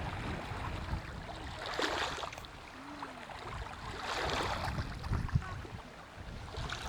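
Sea surf washing onto a stony shore, swelling twice, with wind rumbling on the microphone.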